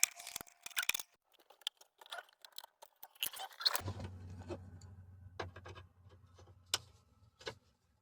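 Flathead screwdriver and small metal and plastic parts clicking, scraping and rattling as the headlight switch is worked loose, with a string of light irregular taps. A low steady hum comes in about four seconds in and stops shortly before the end.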